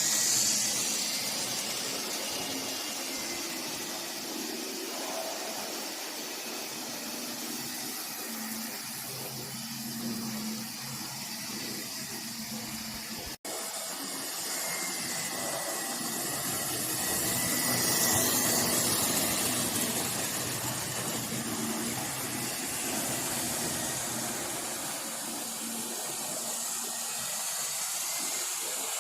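OO-gauge model freight trains running on the layout: small locomotive motors humming and wheels rolling over the track, with a steady hiss. It grows louder about two-thirds of the way through as a train passes close by.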